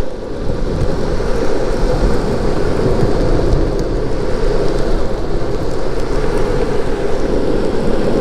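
Longboard rolling on pavement: a steady rumble of the wheels, with wind on the microphone.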